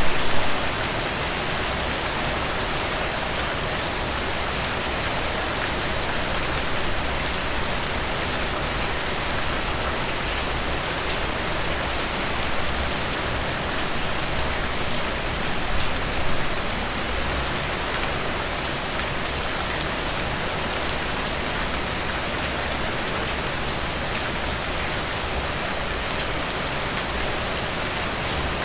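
Heavy rain falling steadily, a dense even hiss with fine drop ticks, swelling briefly near the start and again about sixteen seconds in.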